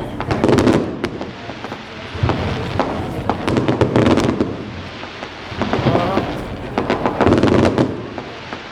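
Fireworks going off: a dense run of sharp crackling pops, with heavier booms swelling up about every three to four seconds.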